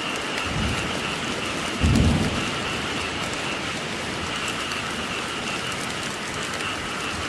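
Steady rain falling, with a short low rumble of thunder about two seconds in and a fainter one just before it.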